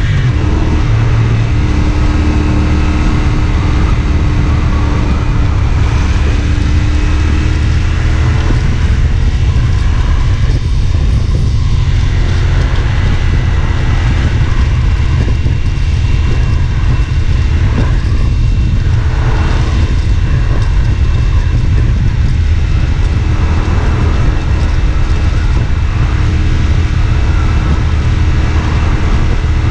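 CFMoto 450SR S motorcycle's parallel-twin engine running steadily while the bike is ridden, heard from on board.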